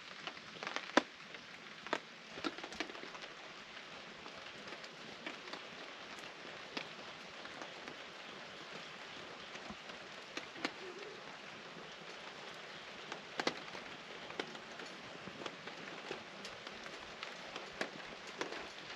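Steady rain pattering on a camp tarp, a soft even hiss with scattered sharper ticks of drops.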